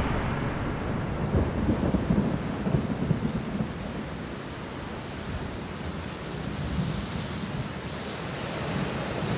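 Thunderstorm: steady rain hiss with low rolling thunder, the rumble strongest in the first few seconds and easing after.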